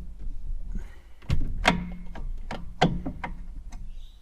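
Front brake caliper of a 1994 Harley-Davidson FLSTN being squeezed and worked by hand to push the pads back: several sharp metallic clicks and knocks, the loudest a little under two seconds in.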